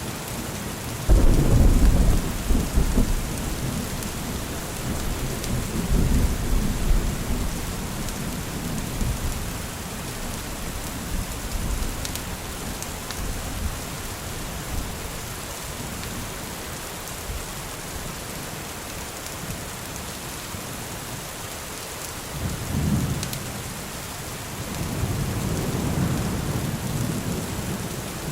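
Steady rain with rolling thunder: a sudden loud thunderclap about a second in that rumbles on for a few seconds, another rumble around six seconds, and more rumbling building near the end.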